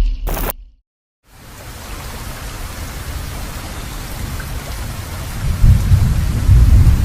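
Heavy monsoon rain fades in after a moment of silence and falls steadily, with low thunder rumbling near the end. A short loud sound is cut off just before the silence.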